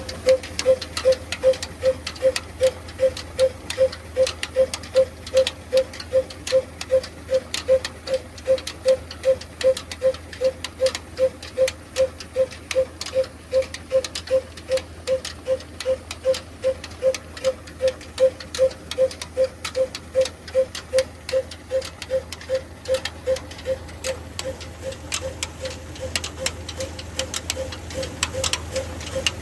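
Stationary diesel engine running a chakki flour mill at a slow, even beat of about two and a half thumps a second, over a steady low hum and light mechanical ticking.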